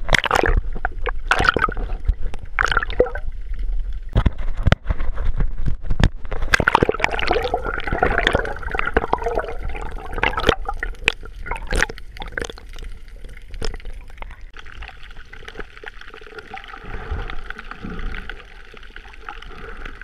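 Water sloshing and gurgling right at the microphone, with many sharp knocks and splashes through the first half, settling to a calmer steady wash from about fifteen seconds in.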